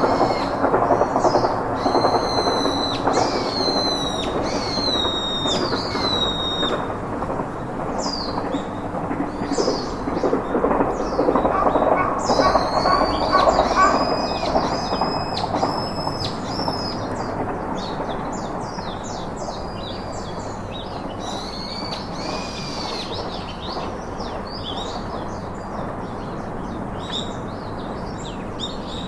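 Several birds chirping and calling, including repeated short downward-sweeping whistles, over a steady rushing noise that fades about halfway through.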